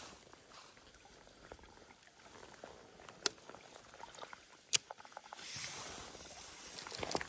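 Faint scattered clicks and rustling: two sharp clicks in the middle, a short rustling hiss near the end, then a few quick clicks.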